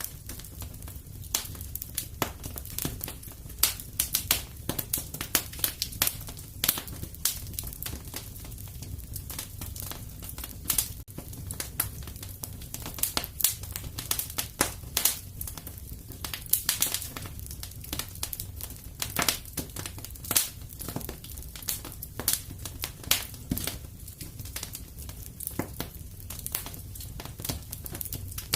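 Fireplace wood fire crackling, with frequent irregular sharp pops and snaps over a steady low rumble of the flames.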